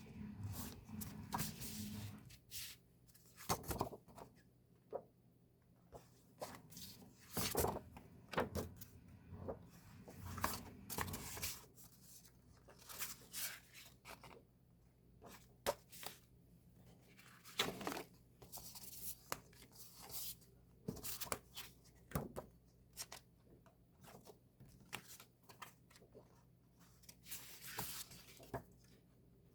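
Hands opening and handling K-pop CD album packaging: irregular crinkling, rustling and small clicks and taps of plastic, paper and card, with a faint low hum for the first dozen seconds.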